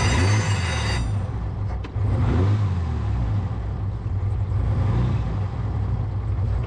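1929 Bugatti Type 43's starter whining as it cranks the supercharged straight-eight, which catches about a second in and then runs steadily. The starter noise comes from worn flywheel teeth; after an adjustment it still has a little of it, but less.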